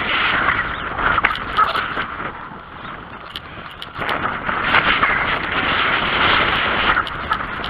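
Bicycle ride heard from the rider's camera: a steady rush of wind noise on the microphone with small clicks and rattles from the bike. It eases for a second or so around the middle, then picks up again.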